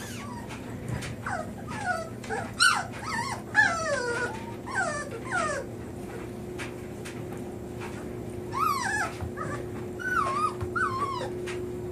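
Young puppies whimpering and crying with their mother away: a string of short, high, wavering cries in two spells, one early and one late.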